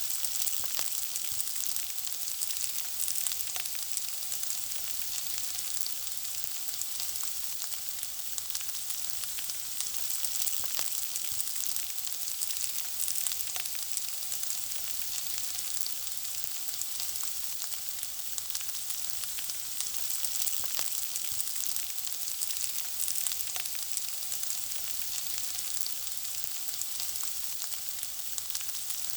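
Food frying in hot oil: a steady sizzle with constant fine crackling and small pops.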